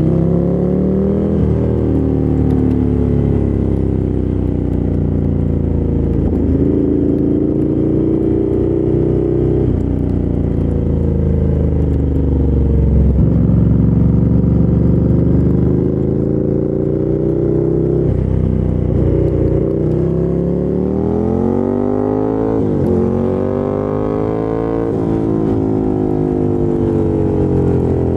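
Ducati Monster 797's air-cooled L-twin engine through a LeoVince LV-10 aftermarket exhaust, heard from the rider's seat while riding. The engine note climbs and drops again and again as the bike accelerates and shifts gears, with quicker, higher revs and drops in the last third.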